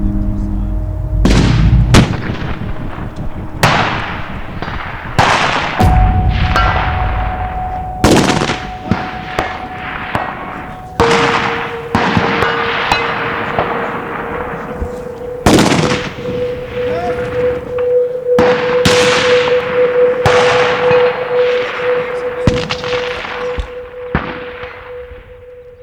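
A string of rifle shots, each rolling off in a long echo across open mountain country, mixed with the ringing of struck steel targets, a sustained metallic ring that holds under the later shots.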